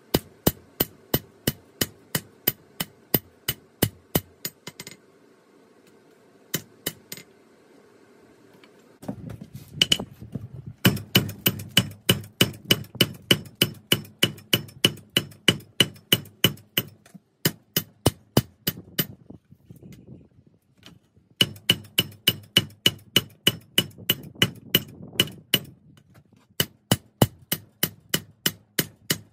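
Hand hammer striking 5160 spring steel on an anvil while forging a knife blade: runs of steady ringing blows, about three a second, broken by a few short pauses.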